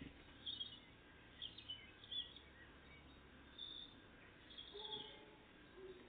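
Small songbirds calling faintly: several short high chirps scattered through the few seconds, with a faint click at the start.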